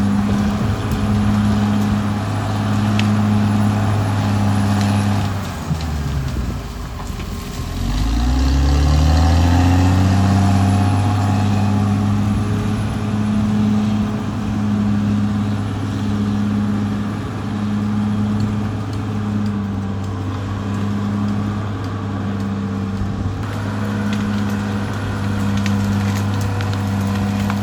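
Caterpillar D6R XL bulldozer's diesel engine running hard, with a regular pulsing about once a second. About six seconds in, the engine pitch drops as it lugs under load, then climbs back up over the next few seconds. There are a few scattered cracks and clanks.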